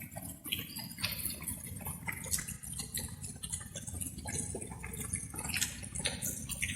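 Light rain with many irregular drops pattering, over a steady low rumble.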